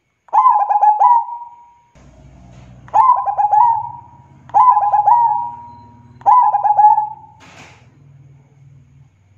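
Zebra dove (perkutut) singing four times. Each song lasts about a second: a quick stutter of clipped notes running into a held coo.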